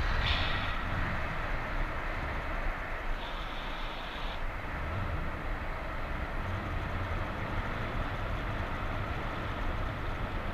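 Strong wind buffeting the microphone: a steady rushing hiss over an uneven, gusty low rumble.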